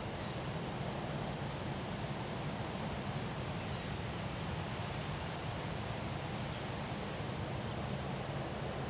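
Windstorm wind blowing steadily: an even, unbroken rushing noise with a low rumble beneath it.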